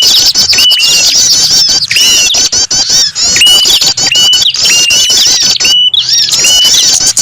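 A dense chorus of many small songbirds chirping and twittering at once, fast high notes overlapping, with one hooked call note repeating about once a second. It is a bird-lure recording, played to draw small birds down to perch.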